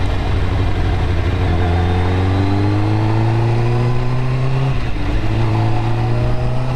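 600cc sport motorcycle's engine pulling up through the revs under acceleration. About five seconds in the pitch drops briefly as it shifts up a gear, then it climbs again.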